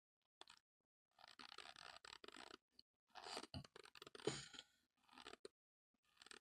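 A mouthful of dry cornstarch powder being chewed close to the microphone, crunching in several bursts with short pauses between them.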